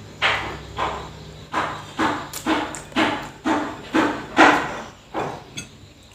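Hammer blows from builders at work, a regular series of strikes about two a second, each one ringing briefly.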